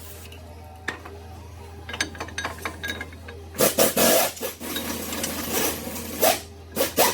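Metal brake parts and hand tools clicking, scraping and rubbing, with a few loud rasping strokes about halfway through and again near the end.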